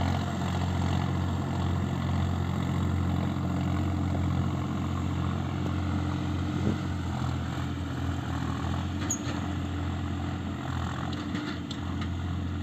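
Diesel engine of a Sonalika 50 hp four-wheel-drive tractor running at a steady speed.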